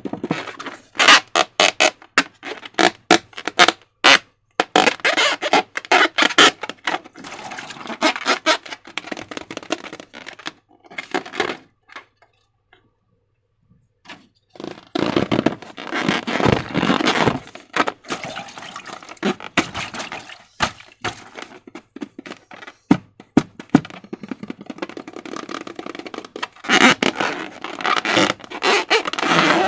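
Slime being squished and worked by hand: dense runs of sticky clicks and squelches, stopping for about two seconds around twelve seconds in, then starting again.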